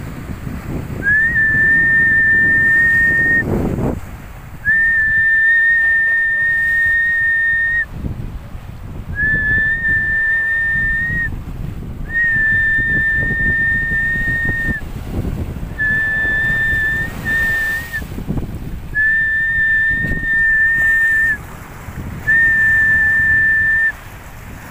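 A whistle blown in seven long, steady blasts of about two to three seconds each, all at the same high pitch, with short pauses between. Wind buffets the microphone and surf rumbles underneath.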